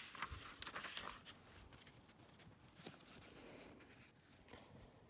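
Faint rustling of paper, strongest in the first second or so: a picture book's page being turned.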